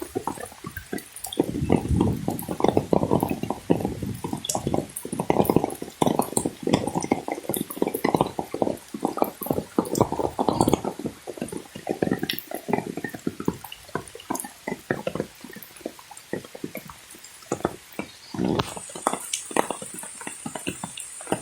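Water splashing and sloshing in irregular, uneven clusters. A steady high-pitched hiss comes in near the end.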